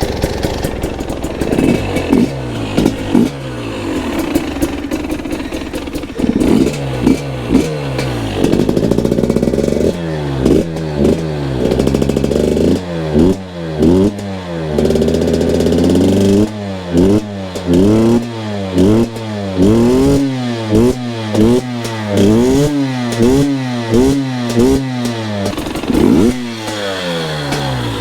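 KTM two-stroke dirt bike engine running, steady at first, then revved up and down over and over in quick throttle bursts, its pitch climbing and dropping about once a second.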